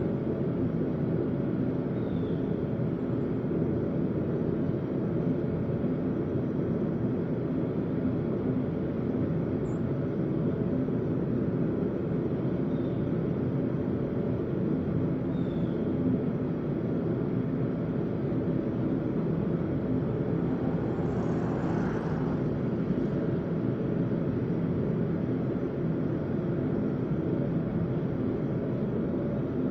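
A forge running with a steady low roar, with a brief swell of hiss a little past two-thirds of the way through.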